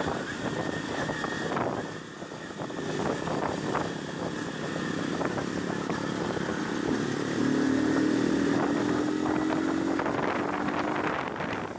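Honda CB300 single-cylinder motorcycle engine running while riding, its pitch rising slowly over the second half.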